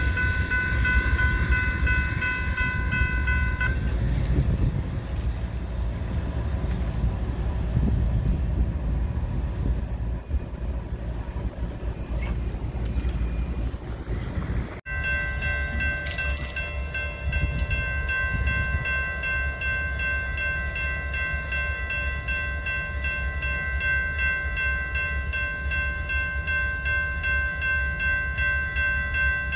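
Locomotive multi-chime air horn sounding a steady chord over the low rumble of a passing train; the horn stops about four seconds in, leaving the rumble, then after an abrupt cut about halfway it sounds again and is held for the rest of the time.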